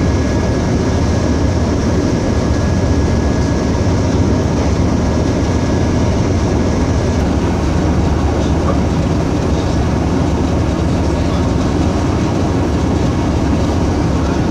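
Steady rumble and rush of a moving passenger train heard from inside the carriage, with wheel-on-rail noise and no clear rhythm. A faint high whine stops about halfway through.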